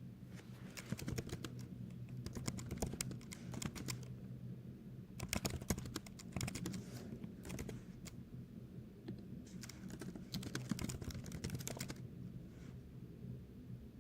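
Typing on a computer keyboard: three bursts of rapid key clicks with short pauses between them, over a steady low hum.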